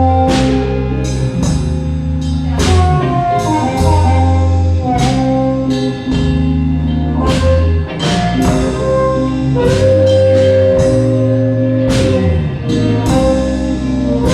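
Live blues band playing a slow blues instrumental break: bass and drums keep a slow beat while a lead instrument plays long held, bent notes.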